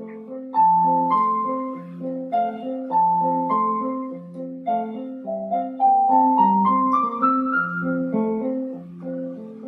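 Piano playing a melody over a repeating broken-chord accompaniment, the melody climbing step by step about six seconds in.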